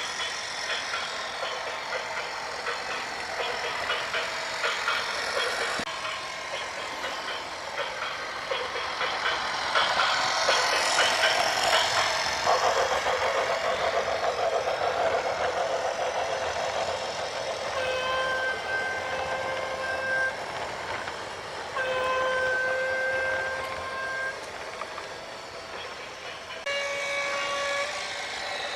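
Heavy vehicle running, then a horn sounding three times in long steady blasts in the second half.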